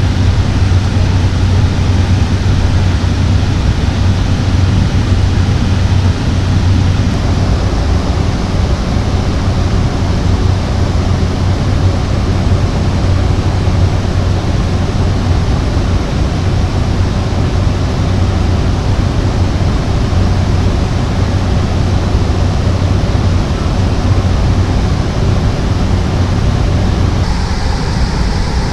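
Cockpit noise of a Cessna 208 Caravan's PT6A turboprop engine and propeller running steadily, a constant loud rush over a low propeller hum. The tone shifts slightly near the end.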